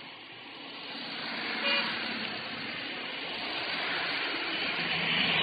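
Road traffic noise from passing vehicles, slowly growing louder, with a short car horn toot about a second and a half in.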